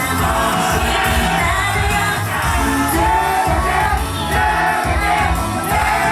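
Idol pop song performed live: group singing over a pop backing track with a steady beat.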